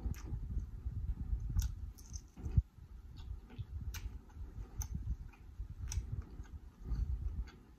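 Close-miked chewing of a mouthful of seafood boil with the mouth closed: a soft low pulsing with scattered small mouth clicks.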